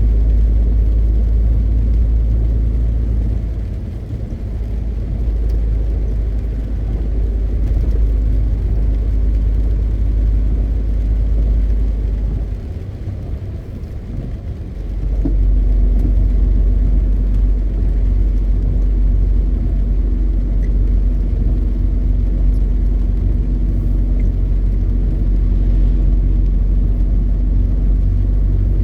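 MAN TGX 520 truck's straight-six diesel engine running under way, a steady low rumble. It eases off briefly about four seconds in and again for a couple of seconds near the middle, then pulls back up to a steady hum.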